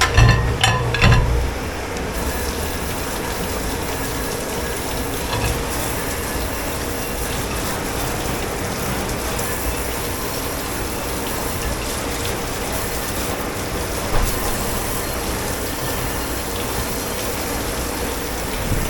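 Steady hiss of water spraying at a commercial dishwashing station, after a few knocks of crockery or metal near the start.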